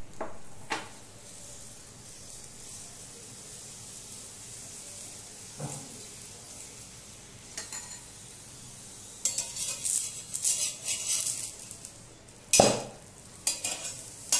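Paratha frying in oil on a tawa: a low steady sizzle, which breaks into louder crackling sizzle about nine seconds in. Near the end comes a sharp metal knock of the spatula against the tawa as the paratha is turned over.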